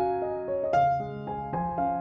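Gentle background music played on piano, notes struck and left to fade one after another.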